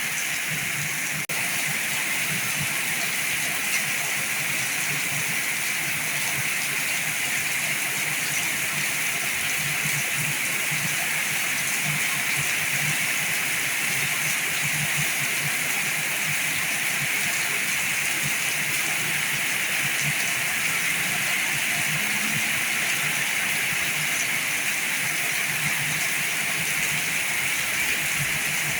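Heavy rain falling steadily, a dense even hiss, with a single faint click about a second in.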